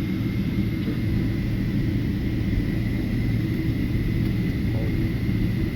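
Steady low rumble of an airliner cabin, with a thin steady whine above it.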